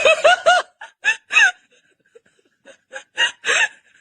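A person laughing in short, breathy bursts, quick at first and then in spaced-out fits.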